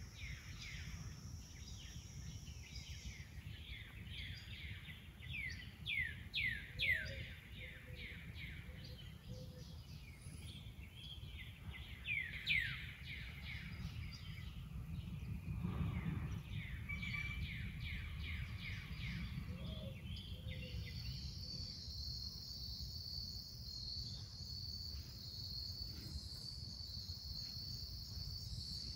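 Outdoor garden ambience. A bird calls in quick runs of falling chirps twice, then a steady high insect trill starts about two-thirds of the way through, all over a low rumble.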